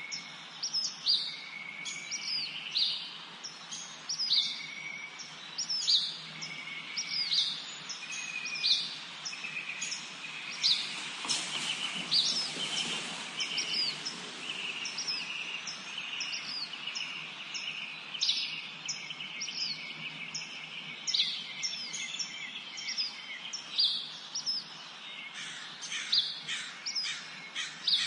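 Several songbirds singing and calling in a spring forest: many short, sharp high chirps, one or two a second, over a soft steady background hiss, with brief lower whistles early on and a denser stretch of song about eleven seconds in.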